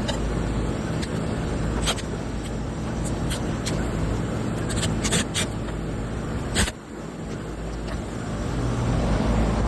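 Air-conditioning unit humming steadily, with several sharp clicks along the way. A click about two-thirds of the way through is followed by a short dip in the hum.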